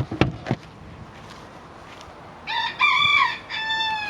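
A rooster crowing: a multi-note cock-a-doodle-doo starting about two and a half seconds in, the last note held and falling slightly. A few sharp knocks come just before, near the start.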